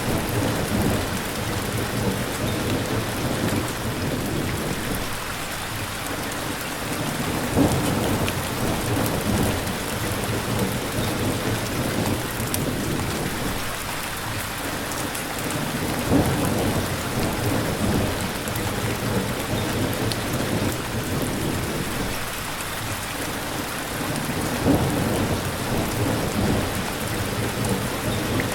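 Steady heavy rain with thunder rumbling. A sharp, loud clap of thunder comes three times, about every eight and a half seconds.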